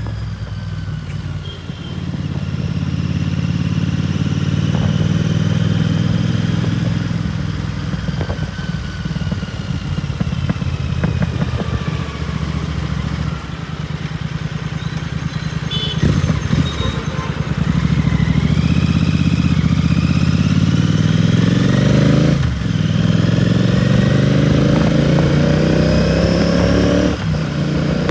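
Royal Enfield Continental GT 650's parallel-twin engine running through a Red Rooster aftermarket exhaust, heard from the rider's seat on the move. The engine note climbs in pitch under throttle several times, with two brief dips between pulls, about two-thirds of the way in and near the end.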